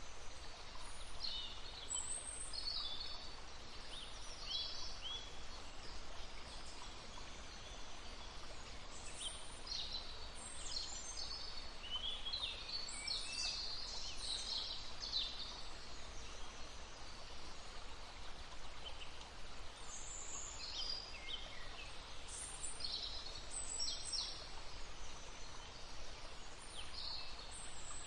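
Several songbirds singing: short high chirps, whistles and trills come and go throughout, densest around the middle. Beneath them is the steady, even rush of a babbling brook.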